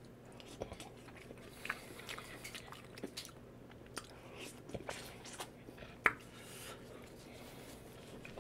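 Close-miked chewing and mouth sounds of a person eating a mouthful of fried rice and seafood: soft, wet smacks and small clicks scattered irregularly, with one sharper click about six seconds in.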